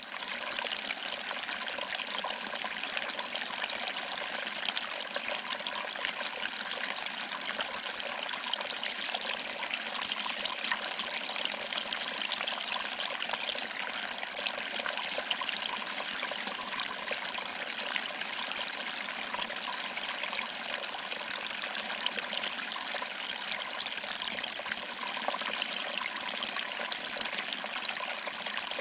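Small waterfall running steadily, water trickling over rocks and splashing into a small pool, an even hiss and splash with little low rumble.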